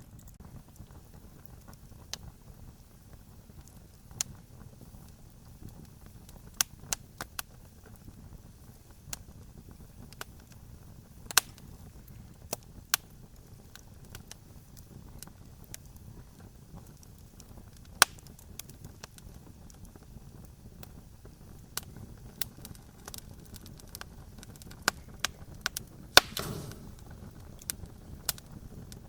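Wood campfire crackling: irregular sharp pops and snaps, a few much louder than the rest, over a low steady rumble. Near the end one louder pop is followed by a short hiss.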